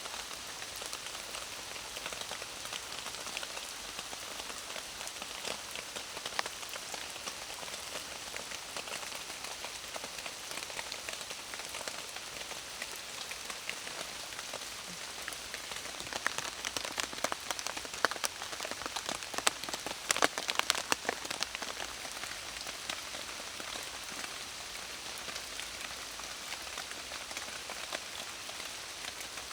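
Steady rain falling, an even patter of drops throughout. About halfway through comes a run of louder, sharper taps lasting several seconds.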